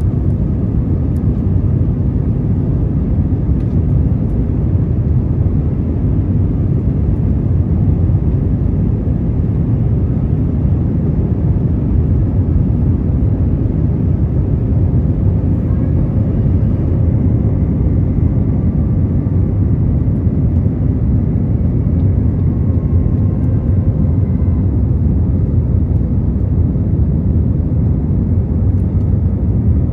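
Steady cabin noise of an Airbus A321 in flight: a constant deep rumble of engines and airflow heard from inside the passenger cabin.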